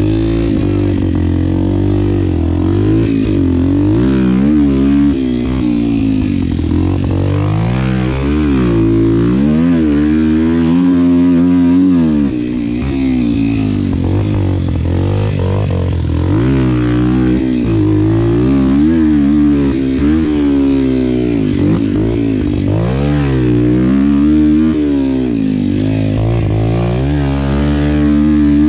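Small single-cylinder four-stroke Yamaha pit bike engine being ridden hard, its pitch climbing and falling back every second or two as the throttle is opened and closed.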